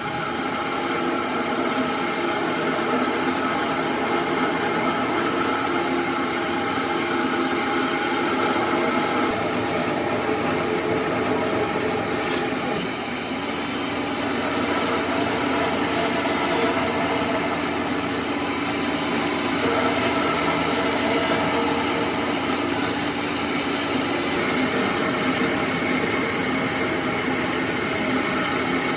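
An electric woodworking power tool's motor running steadily, a constant whine over noise, its pitch shifting slightly about halfway through as the load changes.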